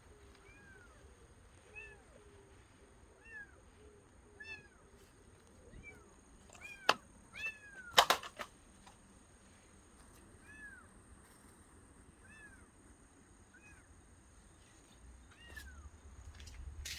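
A cat meowing over and over, about a dozen short high-pitched meows roughly a second apart: the calling of a cat stuck in bushes it cannot climb out of. Two or three sharp clicks come about halfway through and are the loudest sounds.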